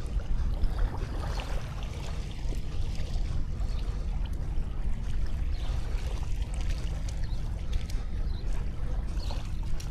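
Small sea waves washing steadily onto a sandy beach, a continuous wash of surf with a low rumble.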